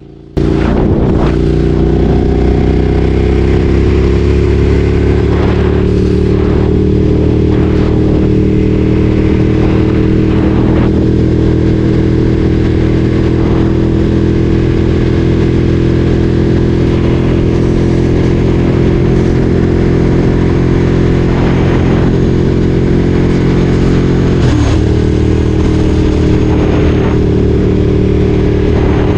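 Ducati Streetfighter 848's L-twin engine running loud at fairly steady revs on the move. It cuts in suddenly at the start, and the note dips briefly and picks up again near the end.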